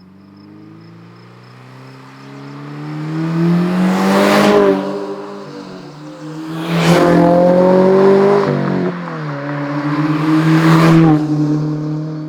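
2022 GR86/BRZ's 2.4-litre FA24 flat-four through a muffler-deleted Remark Boso axleback exhaust, revved hard. The note climbs and falls back three times, each surge loud and raspy.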